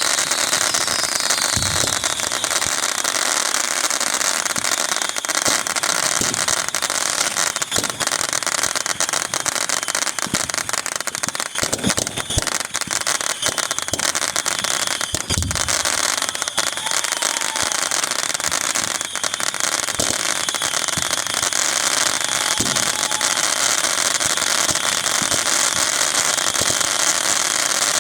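Fireworks display: a dense, continuous crackling of many small bursts, with a few deep booms of shells going off.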